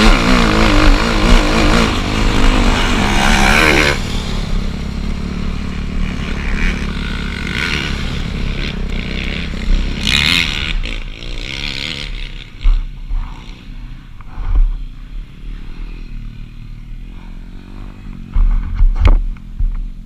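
Motocross dirt bike engine revving up and down close by, loudest for the first four seconds, then running more quietly at a distance. A few low thumps follow in the second half.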